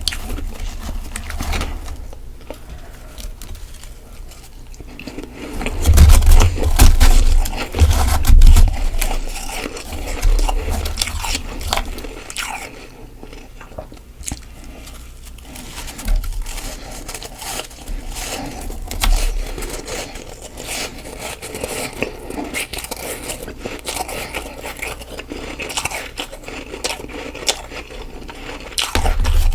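Soft freezer frost being bitten and chewed close to the microphone: dense, crackly crunching, with the loudest run of big bites about six to nine seconds in.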